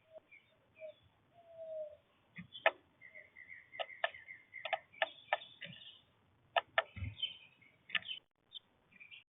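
Small birds at a feeder: short chirps and a rapid run of calls, with a lower drawn-out call about a second and a half in, mixed with sharp irregular clicks.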